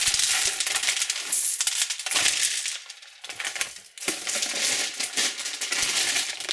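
Crinkling and crackling of plastic candy wrappers and packaging being handled, with many small hard clicks. It drops nearly away for about a second in the middle, then resumes.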